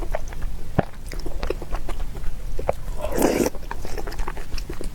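Close-miked chewing of a person eating: soft wet mouth clicks and smacks throughout, with a fuller smacking mouthful about three seconds in.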